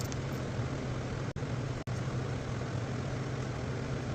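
Steady background hum and hiss of garage room noise, with no distinct event; it cuts out briefly twice about a second and a half in.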